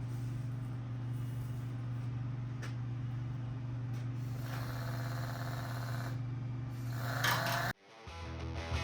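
A power cutting tool running with a steady hum, lightly skimming along a marked cut line in a steel fender; the rougher cutting noise of the wheel on the metal comes in about halfway through. It stops abruptly near the end, and music begins.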